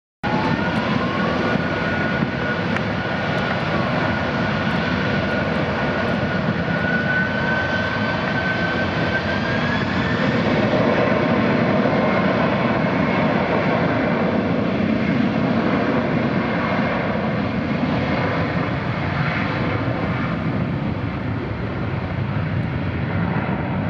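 Boeing 767-400's twin turbofan engines at takeoff thrust: a steady jet roar with a high whine that climbs over the first couple of seconds, holds, and rises again about ten seconds in. The roar is loudest about halfway through.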